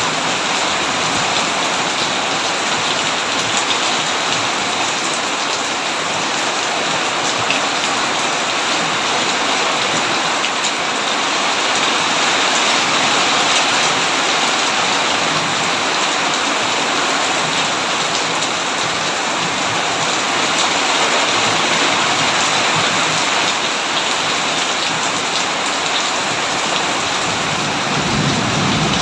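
Heavy rain pouring steadily on a tin roof, with a low rumble of thunder swelling near the end.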